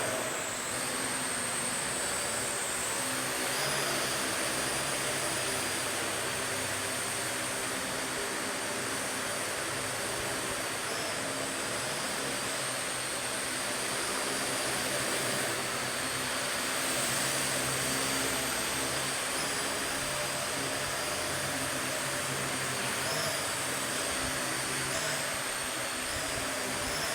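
Parrot AR.Drone 2.0 quadcopter in flight, its four electric motors and propellers giving a steady multi-toned whine with a high-pitched tone on top, shifting slightly in pitch as it manoeuvres.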